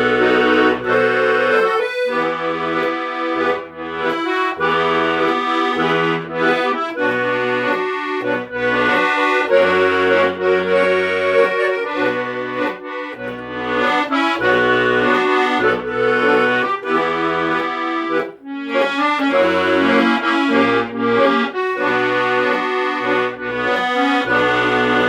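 Accordion music: a melody over a pulsing bass accompaniment, playing without a break.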